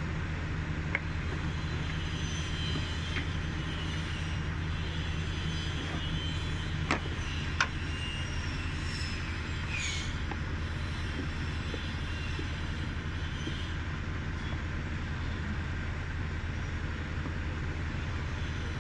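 Steady low mechanical hum, with a few sharp clicks of metal about 1 and 3 seconds in and two louder ones about 7 seconds in.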